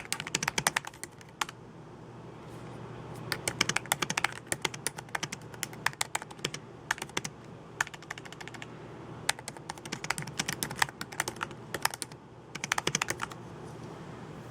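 Typing on a computer keyboard: quick runs of keystrokes broken by short pauses, over a faint steady low hum.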